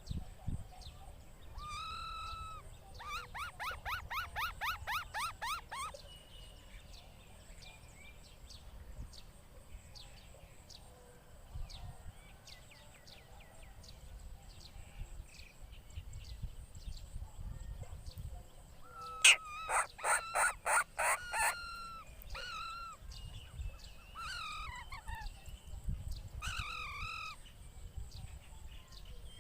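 Birds calling: a fast run of harsh repeated notes a few seconds in and a louder run of about eight sharp notes past the middle, with single calls scattered between.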